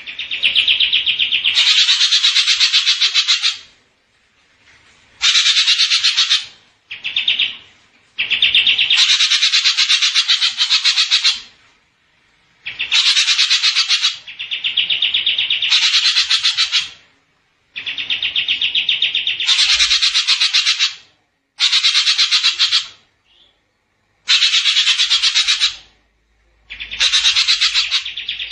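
Songbird tutor (masteran) recording: a bird's fast, buzzy trills in repeated phrases of one to three seconds with short gaps between them, some phrases starting as a narrower trill and then broadening.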